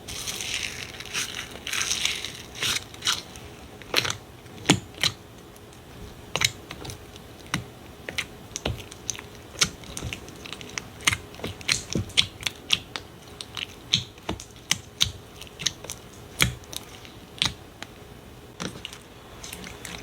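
Slime being worked by hand: a crackly rustle for the first two seconds or so, then a long run of sharp, irregular clicking pops, a few a second.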